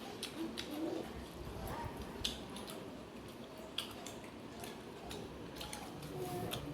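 Eating sounds: scattered soft clicks and smacks from eating a fish meal by hand, over a faint background murmur.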